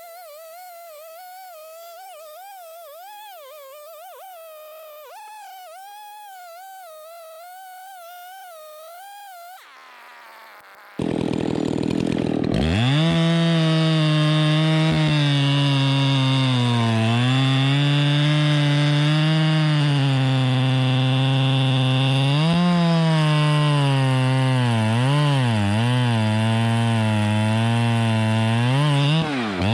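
Soft background music, then about a third of the way in a two-stroke chainsaw comes in suddenly at full throttle. The saw runs loud and steady, its pitch sagging and recovering again and again as it bogs under load in the cut.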